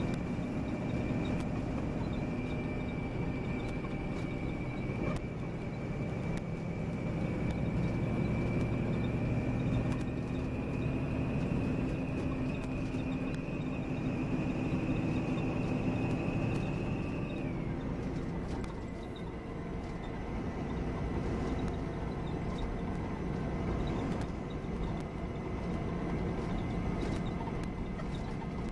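Volvo B9R coach on the move, heard from inside: engine and road rumble with a thin, steady high whine over it. The whine creeps up in pitch, then drops to a lower steady note a little past halfway, as the engine rumble eases off.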